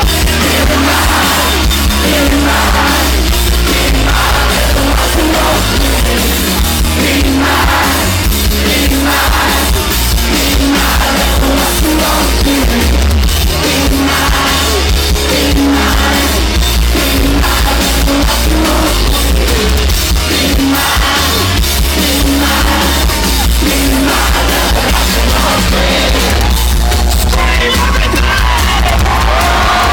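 Live rock band playing loudly, with a heavy, booming bass end and drums under distorted guitar, and a singer yelling and singing over it.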